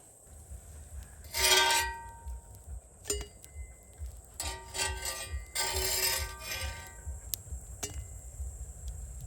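Metal scraping and clinking with a ringing tone: three longer scrapes, the loudest about a second and a half in, and a few sharp clinks, over a pulsing low rumble.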